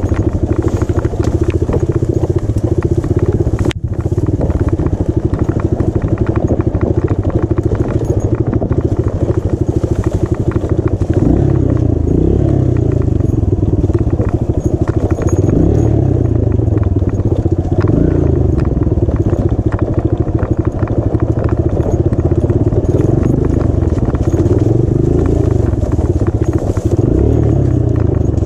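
Dirt bike engine running on a rough trail, its revs rising and falling with the throttle. The sound cuts out for an instant about four seconds in.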